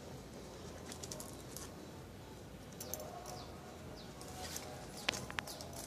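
Small birds chirping outdoors: short high chirps scattered through, some falling in pitch, over a faint steady background hum. Two sharp clicks come close together about five seconds in.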